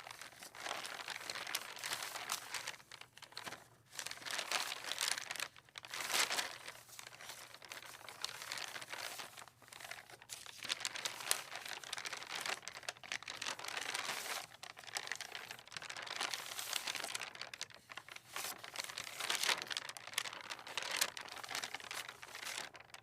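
Sheets of sketch paper rustling and crinkling as they are handled, in irregular swells with short pauses between them.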